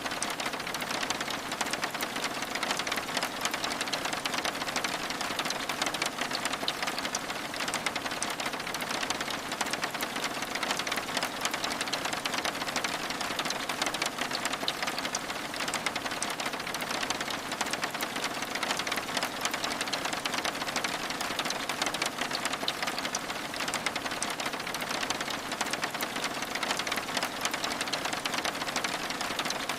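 Steady rain on a window mixed with a crackling wood fire: an even hiss with many small sharp ticks and crackles throughout, unchanging.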